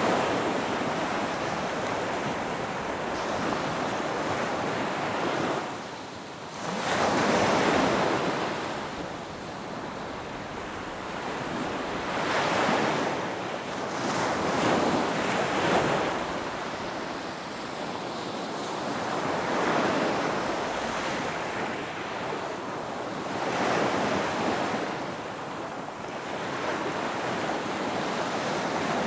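Ocean waves breaking on a beach, in a steady wash of surf that swells with each breaker roughly every four to five seconds, with some wind noise on the microphone.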